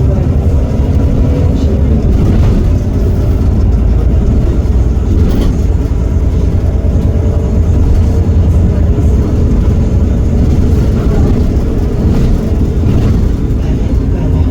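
Heuliez GX327 bus's Iveco Cursor 8 six-cylinder diesel running with a steady, loud low rumble and an even whine above it.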